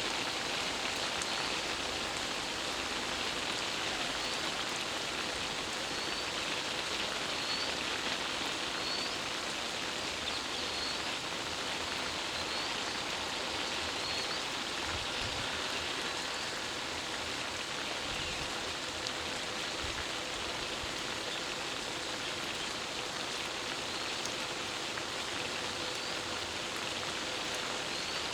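Steady rain falling, an even hiss throughout, with a short high rising chirp repeating about once a second.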